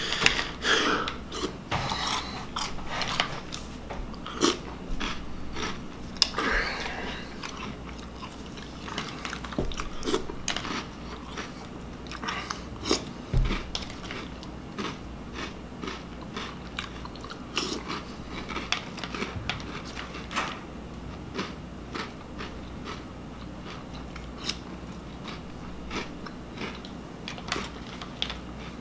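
A person chewing and crunching a mouthful of Reese's Puffs cereal, with many short, irregular crunches.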